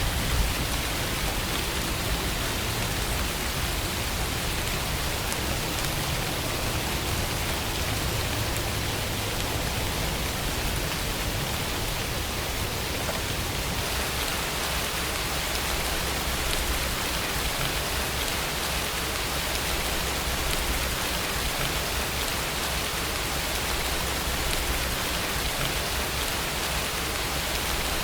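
Steady rainfall, an even hiss of rain falling on a surface with no breaks.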